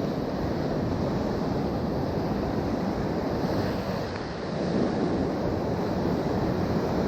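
Sea surf washing with wind buffeting the microphone: a steady rush that eases briefly about four seconds in.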